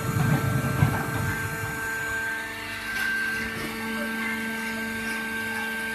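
Hydraulic straw baling machine running, a steady mechanical hum with fixed tones. A low rumble at the start dies away about two seconds in, and a lower steady hum takes over.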